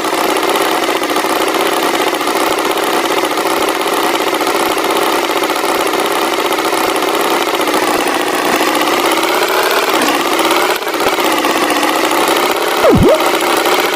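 Cartoon tractor engine sound effect running steadily, its pitch sagging briefly about ten seconds in and then climbing back. Near the end comes a short, loud glide that falls and then rises.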